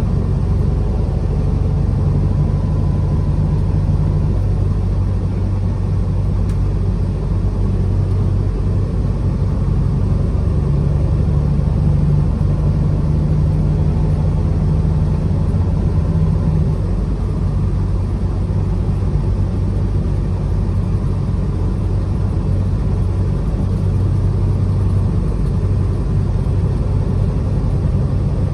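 A truck's engine and road noise while driving: a steady low drone whose pitch shifts slightly partway through.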